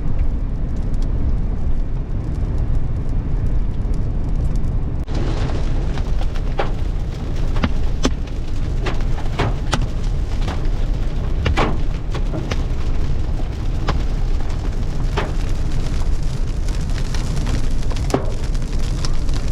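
Hail hitting a moving car, heard from inside the cabin over a steady low road-and-engine rumble. About five seconds in a hiss of rain starts, with many sharp separate cracks of hailstones striking the roof and windscreen.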